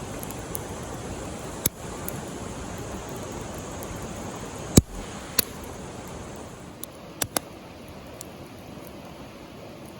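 Campfire cooking: a steady hiss with sharp crackling pops scattered through it, the loudest about halfway through and a quick cluster a little later.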